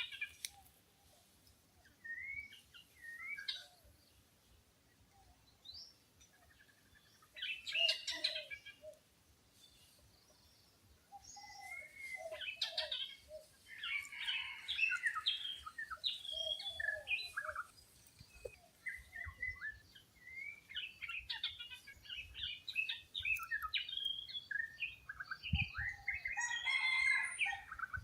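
Birds chirping and calling in short, overlapping notes. The calling is scattered for the first few seconds and turns into near-continuous chatter from about twelve seconds in. There is a brief low thump near the end.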